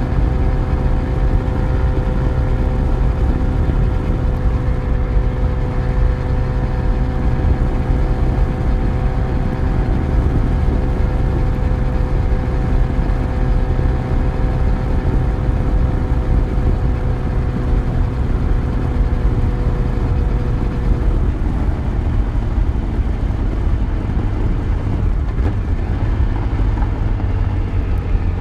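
Yamaha FZ1 motorcycle's inline-four engine running steadily under way. A higher tone in its note fades away about three-quarters of the way through.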